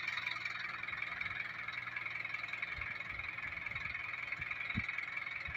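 A steady high-pitched background chorus, with a faint low hum beneath and a few short low thumps in the second half.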